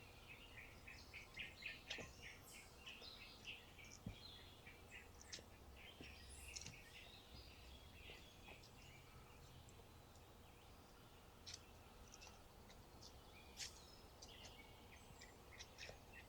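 Faint birdsong in a quiet forest: many quick chirps and calls from several birds, busiest in the first half and thinning out later, over a faint low rumble.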